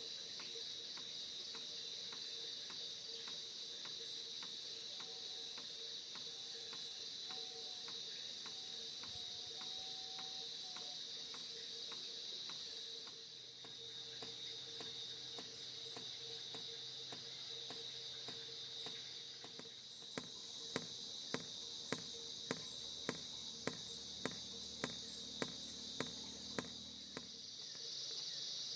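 Insects trilling steadily in a high, continuous chorus. In the second half, a run of about a dozen sharp knocks comes at an even pace of roughly two a second.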